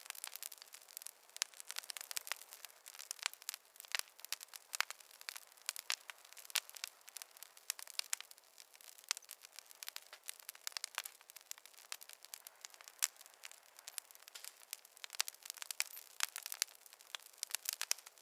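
Fire crackling in a fireplace: a dense, irregular run of sharp pops and snaps over a soft hiss, with no low rumble.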